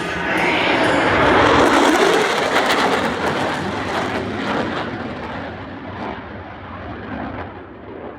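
Military jet flying past, its engine noise swelling to a peak about one and a half seconds in and then fading and dulling as it moves away.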